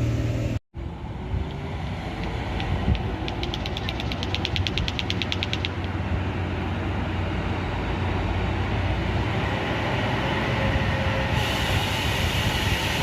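Heavy vehicle running and working hard on a steep climb: a steady, loud rumble. A fast, light ticking of about eight a second runs for a few seconds about two and a half seconds in. The sound drops out for an instant about half a second in.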